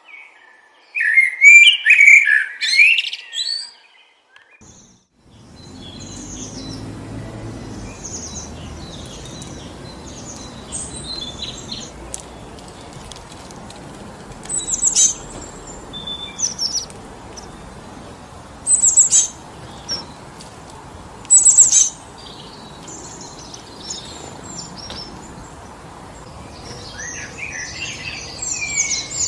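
Songbirds singing and calling: a loud burst of song in the first few seconds, then, after a brief near-silent gap, wind blowing steadily through forest trees with scattered sharp, high bird calls and a flurry of chattering near the end.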